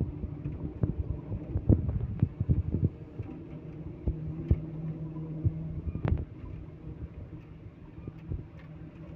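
A heavy vehicle's engine running steadily, with a series of knocks and clunks over the first few seconds and one sharp knock about six seconds in.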